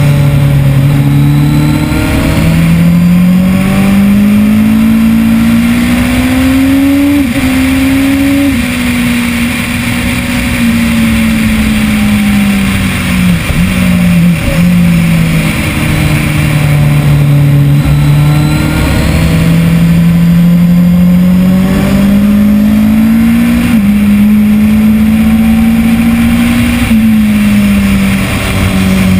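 Kawasaki ZX-10R inline-four engine at track pace, heard from on board over wind rush. Its pitch climbs under acceleration, breaks briefly at gear changes and sinks as the bike slows, several times over.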